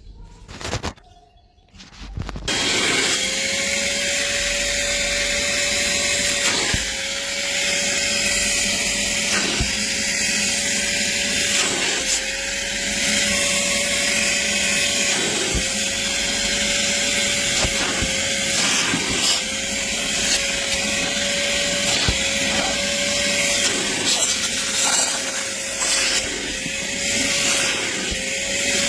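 Vacmaster VOM205P 2.5-gallon wet/dry shop vacuum switched on about two seconds in, then running steadily as its nozzle extracts soapy water from a wet car seat. A whistling tone over the motor noise breaks off and returns about every two seconds.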